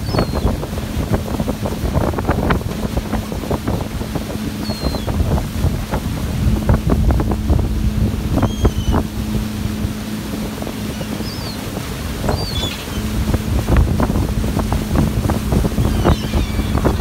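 Wind buffeting the microphone on an open boat, over the steady hum of the boat's engine, with a few short, high gull calls scattered through.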